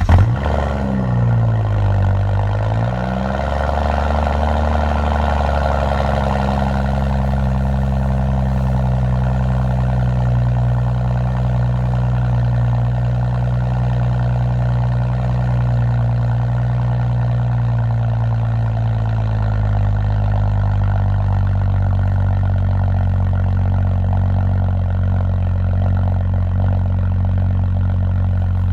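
BMW 535i's turbocharged 3.0-litre inline-six running at a high cold-start idle just after firing up. The pitch dips and recovers in the first few seconds, holds steady, then settles slightly lower about two-thirds of the way through as the idle comes down.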